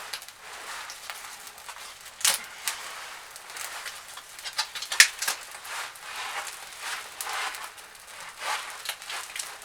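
Newly lit fire of wood shavings and small kindling crackling in a fireplace, with scattered sharp pops, the loudest about two and five seconds in.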